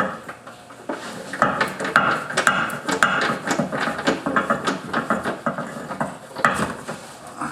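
Hand tools clinking and rattling against metal in quick, irregular clicks as a wrench works the nuts on a car's rear suspension control arms.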